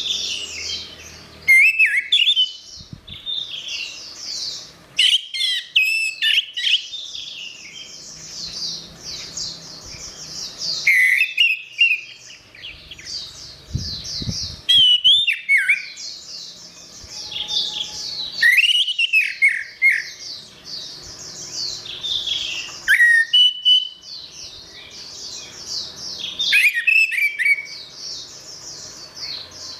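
Orange-headed thrush (anis merah) singing a long, varied song of rapid high warbling notes, broken every few seconds by louder swooping phrases.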